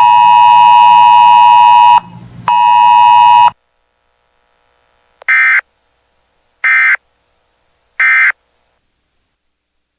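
Weather radio emergency alert broadcast ending. A loud, harsh buzzing tone sounds for about two seconds, breaks off briefly, and sounds again for about a second. Then three short, identical screeching data bursts come about a second and a half apart: the Emergency Alert System end-of-message code.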